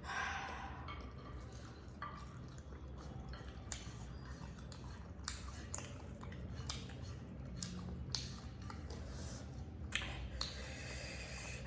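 Eating sounds: wet chewing and mouth noises with scattered light clicks of utensils against dishes.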